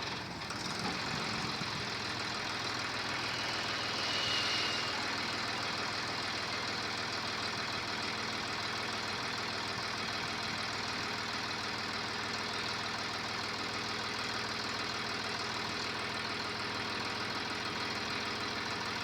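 Tractor engine running steadily, with a slight swell in level about four seconds in.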